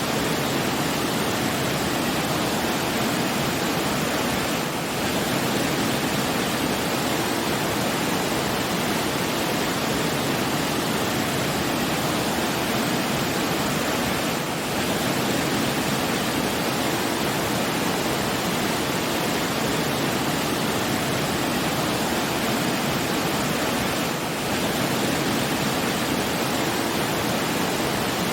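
Steady rushing of falling water, like a waterfall, even and unbroken. It dips briefly about every ten seconds.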